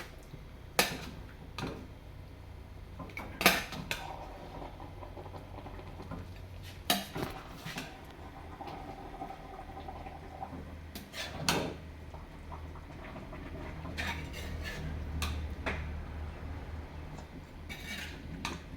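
Metal cooking pots and utensils clanking: sharp knocks at irregular intervals, a second to a few seconds apart, over a low steady hum.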